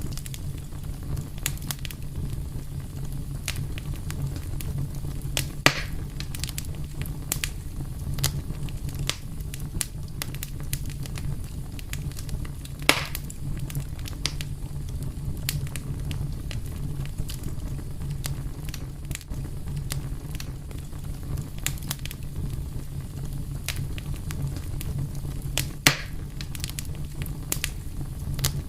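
Wood fire crackling steadily, with a low rumble of burning under frequent sharp small pops and three louder snaps spread through.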